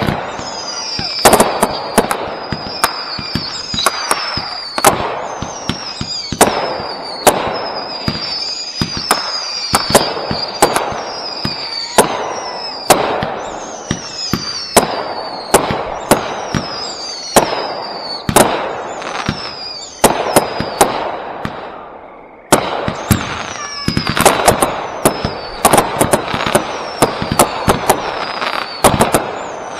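Consumer firework cakes firing in rapid succession: sharp launch pops and bursts about one or two a second, many trailed by a falling whistling tone. The firing dies away briefly about three-quarters of the way through, then starts again, denser.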